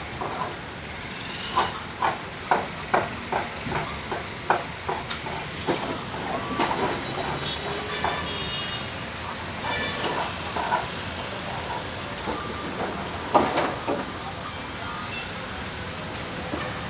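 Construction-site ambience: a steady noisy background with a run of sharp knocks, about two to three a second, in the first few seconds, and another cluster of loud knocks about thirteen seconds in.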